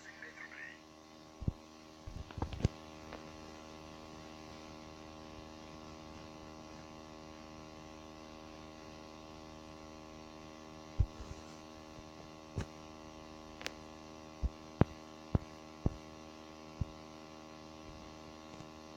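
Steady electrical mains hum with many even tones, broken by scattered sharp clicks and knocks, a cluster near the start and several more in the second half.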